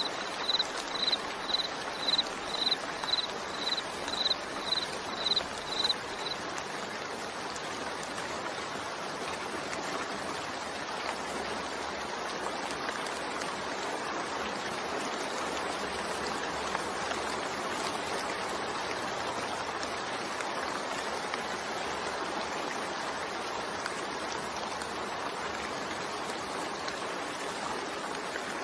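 Steady rainfall, an even hiss of falling rain. During the first six seconds a high chirp repeats about three times a second over it, then stops.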